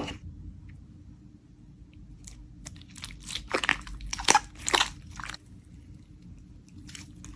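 Slime being pressed and squeezed by hand, giving a cluster of crackles and pops about three to five seconds in, after a sharp click at the start.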